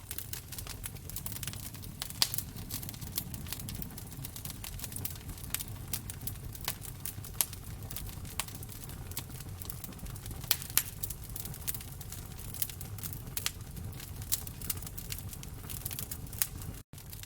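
Wood fire crackling in a fireplace: irregular sharp pops and snaps over a low steady rumble. The sound cuts out for an instant near the end.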